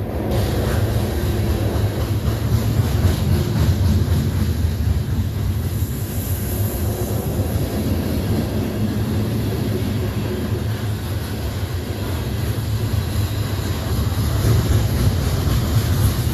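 Freight train cars rolling past at close range: a steady, continuous rumble of steel wheels on the rails.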